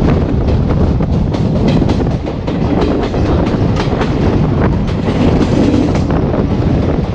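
Moving passenger train's coach wheels clicking rapidly over rail joints above a steady running rumble, heard from beside the open side of the coach with wind on the microphone.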